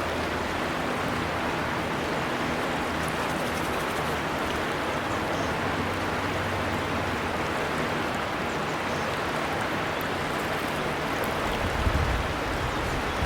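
River water flowing steadily, a constant rushing. A brief low rumble comes near the end.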